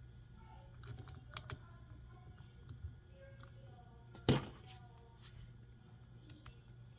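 Small clicks and taps of plastic RC car wheel and tire parts being handled and fitted by hand, with one louder click about four seconds in, over a steady low hum.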